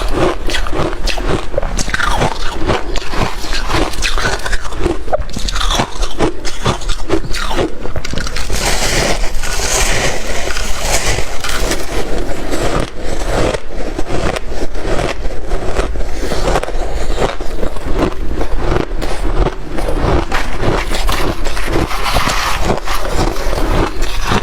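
Close-miked crunching and chewing of frosty shaved ice, bite after bite in quick, irregular succession.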